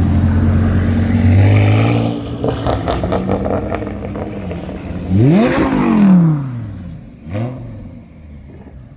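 Car engine running, then revved twice: a longer rev that rises and falls about five seconds in, and a short blip about two seconds later. Some clatter comes between the steady running and the revs.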